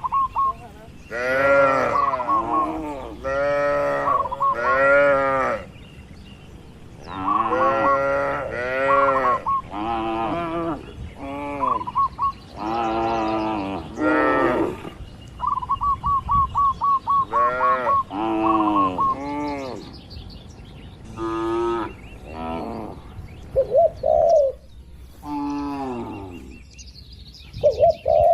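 Cattle mooing over and over, one call after another, each about a second long and bending up and down in pitch. Between the calls a bird gives a rapid trill of short high notes a few times.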